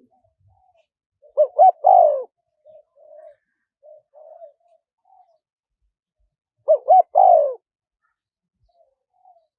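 Spotted dove cooing: two loud three-note phrases about five seconds apart, each two short coos and then a longer one, with softer notes in between. It is the song of a decoy dove, played to lure wild spotted doves in.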